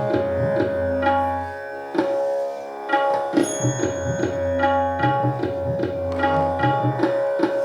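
Tabla playing a steady rhythm cycle, with low bending strokes from the bass drum, over a continuous drone accompaniment for singing practice.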